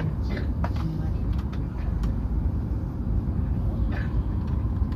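Hokuriku Shinkansen running at speed, heard inside the passenger cabin: a steady low rumble with a faint whine and occasional light clicks.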